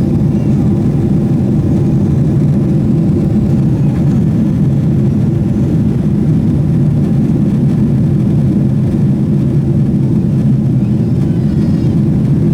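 Steady, loud cabin rumble of a Boeing 777-300ER in flight: its GE90 engines and the airflow heard from a seat near the wing, holding even with no change in pitch.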